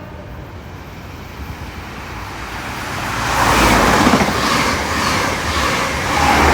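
High Speed Train with Class 43 diesel power cars passing through the station at speed without stopping: a rushing noise builds over a couple of seconds, is loudest about halfway through and swells again near the end.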